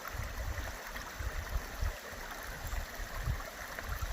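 Creek water running steadily over rocks, with uneven low rumbles on the microphone.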